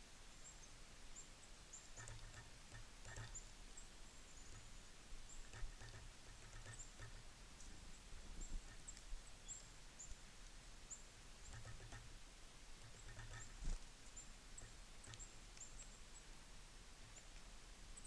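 A flock of small songbirds at a feeder, faint: many brief, very high-pitched call notes scattered throughout, with clusters of soft low thuds and a few sharp knocks, the loudest about 14 s in.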